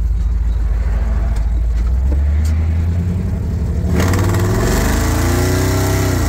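Supercharged engine heard from inside the cab, running low and steady, then accelerating about four seconds in with a rising supercharger whine. The whine drops away near the end.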